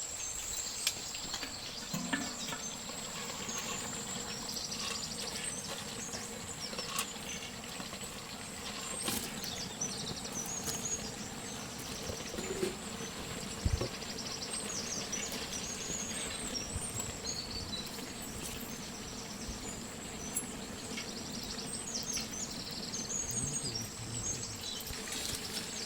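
Rural outdoor ambience: small birds chirping on and off over a steady high insect drone, with a knock about fourteen seconds in.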